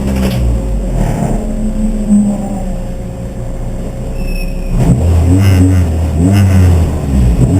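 Race car engine running at racing speed, steady at first; from about five seconds in it gets louder, its pitch rising and falling again and again as it revs.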